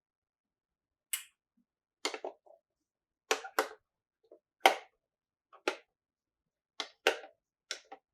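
Plastic toy pieces clicking and tapping: about nine short, sharp clicks at irregular intervals, some in quick pairs, with silence between them. The loudest comes a little before five seconds in.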